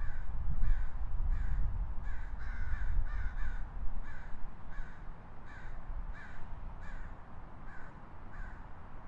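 A bird giving a long series of short calls, about two a second and sometimes doubled, over a low background rumble that is strongest in the first few seconds.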